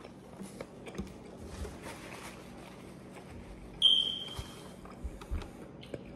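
Quiet eating sounds: a bite of pizza being chewed, with small clicks and soft low thumps. About four seconds in comes a single loud, high electronic beep that fades over about half a second.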